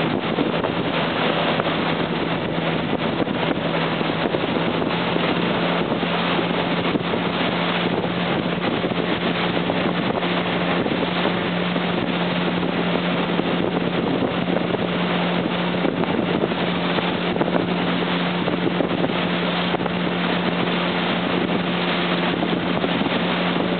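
Pontoon boat's outboard motor running steadily at speed while towing a water-skier, a constant hum under a dense rush of water and wind.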